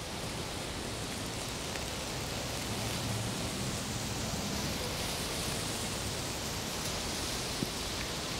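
Steady rain, an even hiss, with a faint low hum underneath and one sharp tick near the end.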